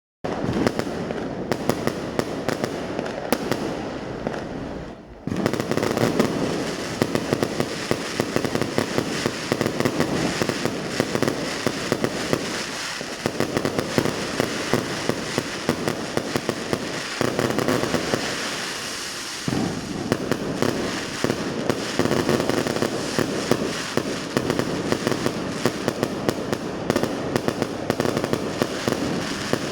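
Fireworks going off in a dense, continuous barrage of crackles and pops, with sharper bangs scattered through. It eases off briefly about four to five seconds in, then comes back suddenly louder.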